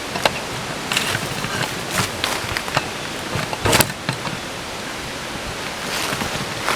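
Strong wind blowing, a steady rushing noise, with scattered short crackles and one louder thump just under four seconds in.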